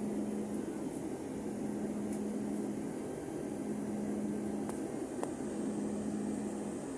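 Airliner cabin noise on the approach to landing: a steady rushing hum of engines and airflow with a held low drone.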